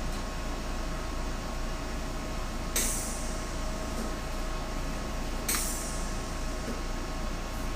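Two brief hissing bursts from a MIG welding gun being triggered, about three seconds apart, over a steady shop hum.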